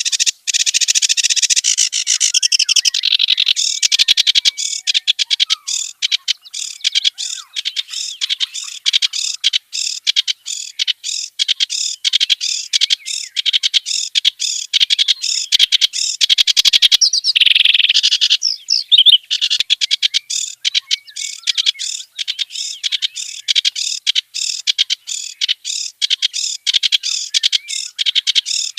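Clamorous reed warbler (kerak basi) singing a long, varied song: a loud, unbroken run of short, rapidly repeated chattering notes, with a couple of denser warbled passages.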